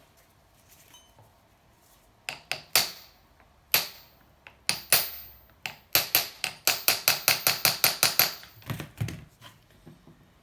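Hammer strikes on the Honda C70 engine's cylinder, working to free a piston seized inside it. A few spaced blows come first, then a quick run of about five blows a second, ending with a duller thump.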